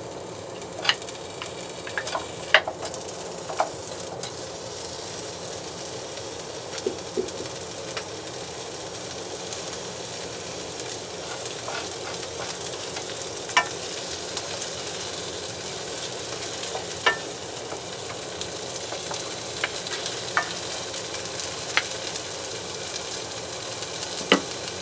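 Sliced onion rings sizzling in hot cooking oil in a nonstick frying pan. The sizzle grows slightly louder as the pan heats. Every few seconds there is a short, sharp tap or scrape as a wooden spatula moves the onions around.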